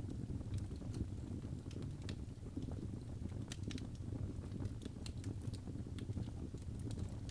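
Fire in a fireplace crackling: irregular small pops and snaps over a low, steady rumble of the flames.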